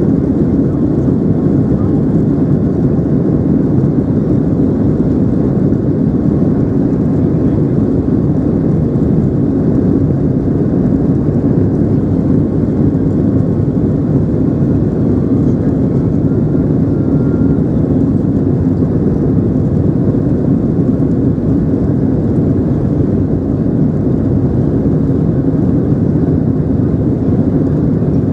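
Steady, loud jet cabin noise of a Boeing 737-800 in flight: the CFM56-7B turbofans and the airflow past the fuselage, heard from a seat near the wing.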